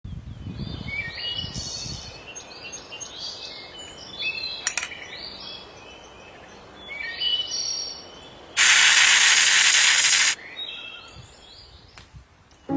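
Wild birds singing in a forest, a series of short chirping phrases. About nine seconds in, a loud, even hiss cuts in for almost two seconds and stops abruptly.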